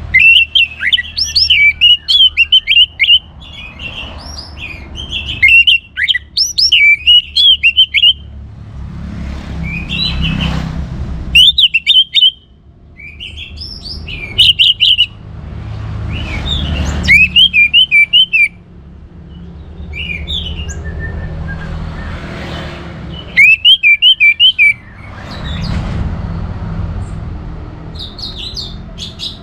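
Orange-headed thrush singing: loud, quick phrases of rising and falling whistled notes, delivered in bursts of one to three seconds with short pauses between, about eight phrases in all, over a low background rumble.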